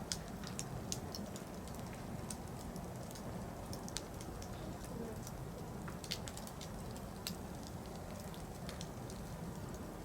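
Firewood burning in a campfire: irregular sharp crackles and pops, a few louder than the rest, over a low steady rumble of flame.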